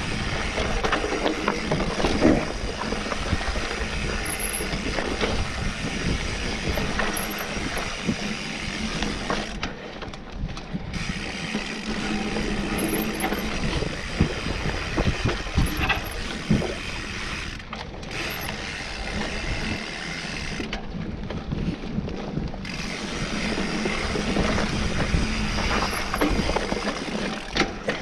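Mountain bike ridden along a dirt trail: a steady rattle and clatter of tyres, chain and frame, dotted with clicks and knocks, with the rear hub ratcheting as it coasts.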